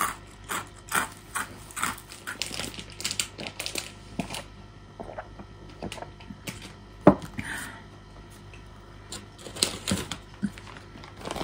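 Crunchy vegetable karintō (fried snack sticks) being chewed, quick crisp crunches close to the microphone. The crunching thins out in the middle, with one sharp knock about seven seconds in, and picks up again near the end.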